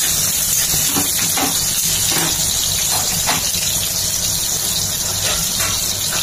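Potato chunks sizzling steadily in hot oil in a metal wok, with a few brief scrapes of a metal spatula against the pan.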